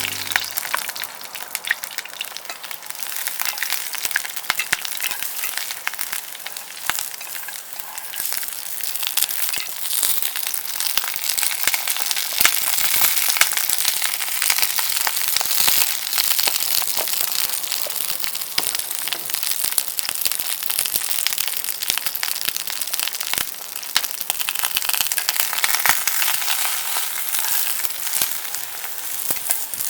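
Food frying in a pan, a steady sizzle full of small pops and crackles.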